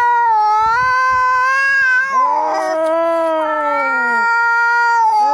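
Cats yowling in a fight: long, drawn-out, wavering caterwauls, one after another, with a second call overlapping in the middle.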